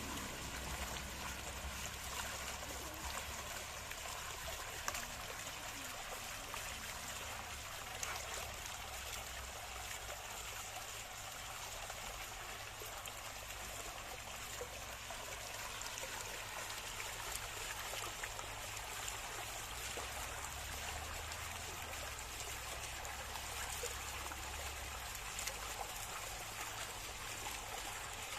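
Water running and trickling steadily, an even splashing hiss with small scattered drips and splashes.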